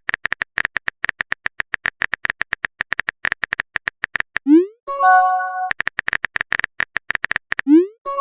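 Phone keyboard typing clicks, about seven a second for several seconds. Then a quick rising pop and a short bright chime of a few steady notes, as chat-message send and notification sound effects. The clicks start again, and another rising pop comes near the end.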